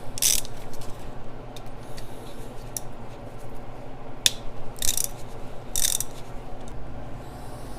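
Hand tools working on metal fasteners: a few short, sharp metallic clicks and scrapes, with fainter clicking between, as bolts or studs are worked out of the turbo and exhaust manifold.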